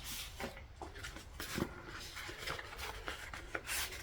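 Faint rubbing and scattered light clicks of hands handling sandpaper and a piston wrist pin.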